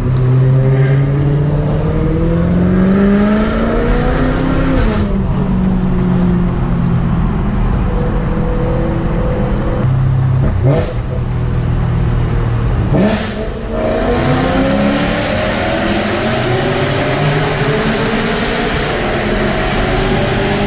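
Car engine pulling hard through the gears. Its pitch rises over the first four seconds or so and falls back, then climbs again toward the end, with short breaks about eleven and thirteen seconds in where the revs cut.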